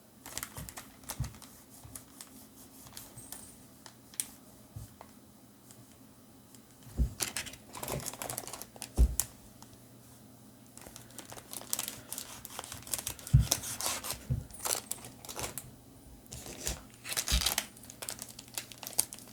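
Foil Pokémon booster pack wrappers crinkling as they are handled and shuffled, with a few light knocks as packs are set down.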